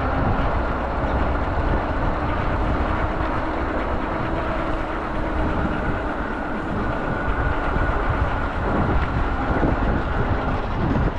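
Steady rumble and hiss of a moving vehicle, with a faint steady whine.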